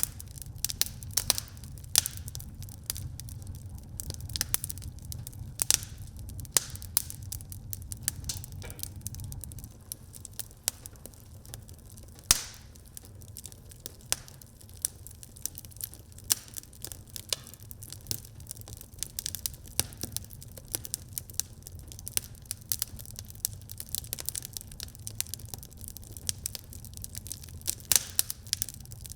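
Wood fire burning in a fireplace: a steady low rumble of flames with continual irregular crackles and pops, and one sharper, louder pop about 12 seconds in.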